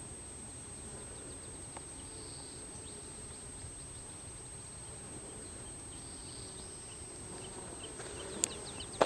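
Quiet outdoor ambience: a steady faint hiss with a thin constant high whine, faint high chirps scattered through it, and two sharp clicks near the end.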